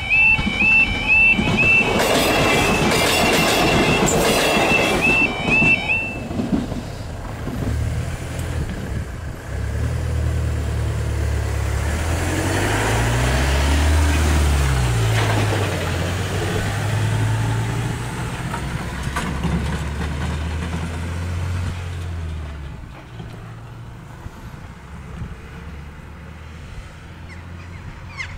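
Level crossing alarm warbling while a train, a Class 158 diesel unit, clatters over the crossing from about two to five seconds in. The alarm stops about six seconds in as the barriers rise. A road vehicle's engine then drones past close by, loudest about halfway through, and fades out.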